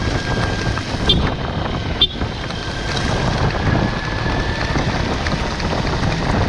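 Kawasaki Versys-X motorcycle underway, its parallel-twin engine running under a steady rush of wind on the microphone. Two short clicks come about one and two seconds in.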